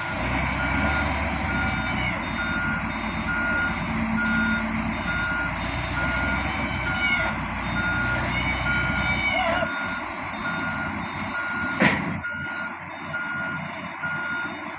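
Heavy-equipment reversing alarm beeping steadily, about two beeps a second, over a diesel engine running during the loading of a bulldozer onto a truck. A single sharp knock sounds late on.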